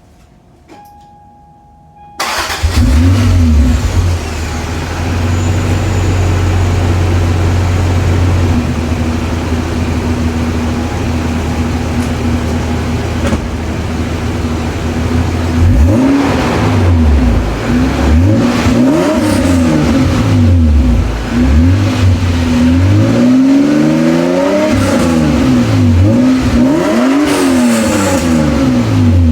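Toyota Cressida MX83's engine starting about two seconds in and running through a freshly welded temporary exhaust, idling fast at first, then revved again and again in the second half, the pitch rising and falling with each blip.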